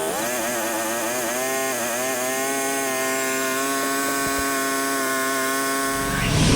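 Engine-driven band sawmill sawing black walnut. Its pitch dips and wavers as the blade loads into the cut, then holds steady. Near the end a louder, lower rumble comes in.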